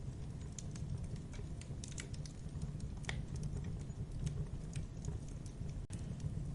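Wood fire burning: a steady low rush of flame with irregular crackles and snaps of burning wood, one sharper snap about three seconds in.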